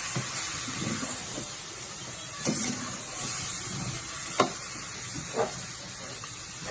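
A steady hiss, with three short sharp knocks about two and a half, four and a half and five and a half seconds in.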